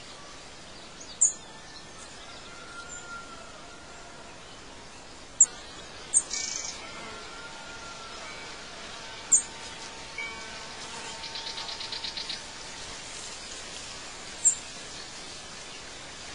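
Outdoor ambience of birds: a few sharp, high single chirps scattered over a steady hiss, with a quick pulsing trill about two-thirds of the way through.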